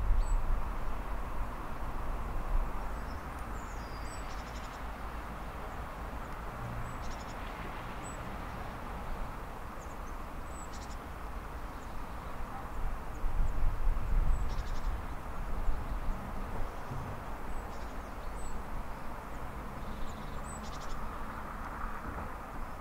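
Russian open freight wagons rolling slowly on the rails: a steady low rumble of wheels and bogies that swells now and then, with small birds chirping here and there.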